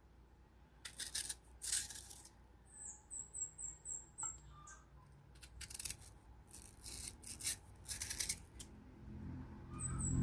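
Knife cutting and peeling a crunchy fresh mango in short crisp strokes, a few at a time. Quick high chirps come in two runs, and a rooster starts to crow near the end.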